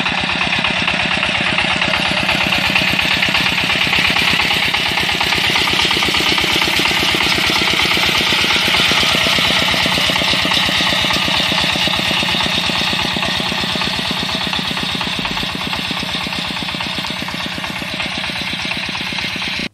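Walk-behind tractor's small engine running steadily, with a rapid, even chug of firing strokes.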